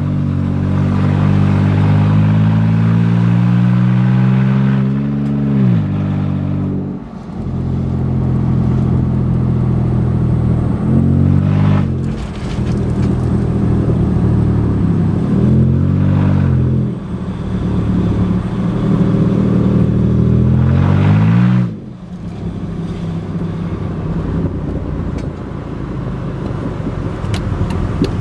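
2012 Jeep Wrangler's 3.6-litre Pentastar V6 running on catalytic converters only, with no exhaust pipe after them, extremely loud. The engine note climbs and drops sharply several times, then settles into a lower, rougher rumble a little past the two-thirds mark.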